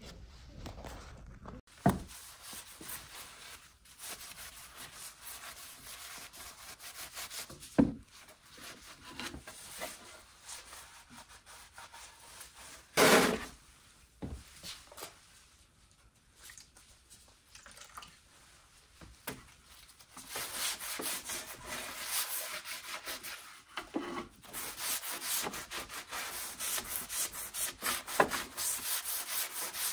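Hand rubbing or scrubbing strokes on the wooden table, a scratchy hiss that gets steadier and louder about two-thirds of the way in. A few knocks and one heavier thump about halfway through, as the table is handled.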